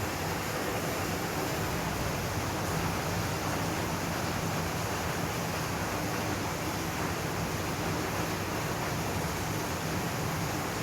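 Heavy rain falling steadily, a continuous even hiss with no individual drops standing out.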